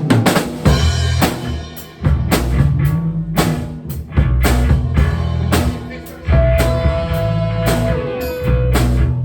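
Rock music with a drum kit playing a steady beat over low bass notes that change every second or so.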